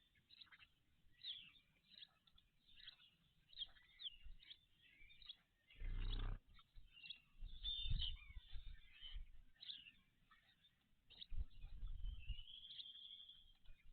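Small songbirds chirping and singing in many short, high notes, with one longer drawn-out note near the end. Low rumbling thumps break in about six and eight seconds in, and again from about eleven to twelve seconds.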